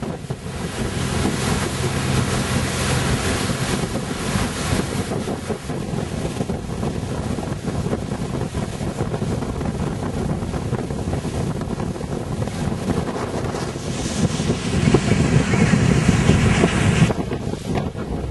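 Wind buffeting the microphone, with water rushing past a boat under way. It grows louder for a few seconds near the end.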